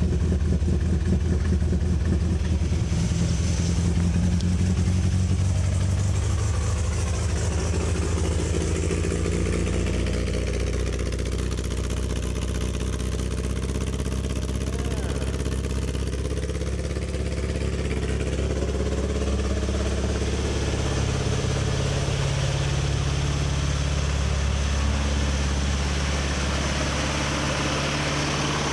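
MGB's 1.8-litre four-cylinder engine running on choke just after a cold start, having sat for four or five days. The engine speed wavers, running higher for the first several seconds and then settling lower.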